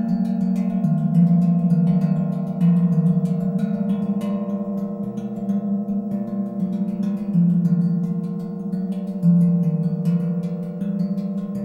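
Tank drum made from a small propane tank, played with rapid repeated strokes so its tongues ring in overlapping sustained metallic tones, the low notes changing every second or two.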